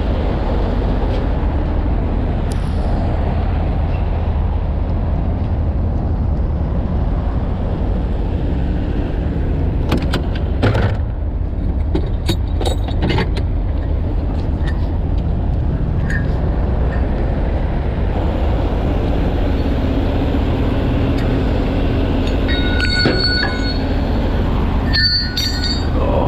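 Steady low rumble of heavy truck engines and freeway traffic, with a few sharp clicks and knocks about midway and short repeated electronic beeps near the end.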